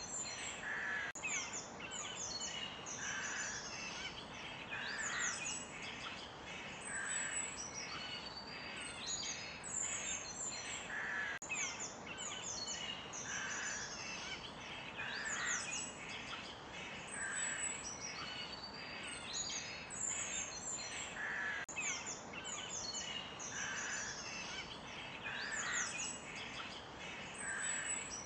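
Forest birds chirping and calling continuously, many short quick notes from several birds, over a steady background hiss.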